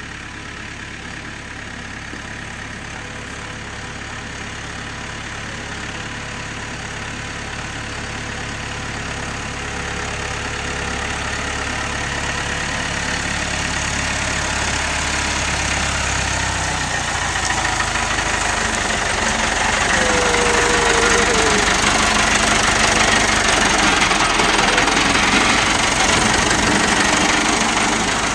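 Tractor engine running steadily, growing louder through the whole stretch, with a change in its low hum about two-thirds of the way through.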